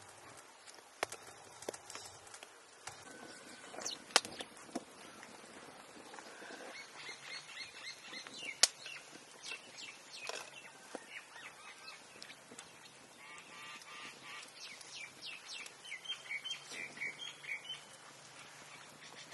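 Birds calling in runs of short, repeated chirps, with a few sharp clicks or knocks.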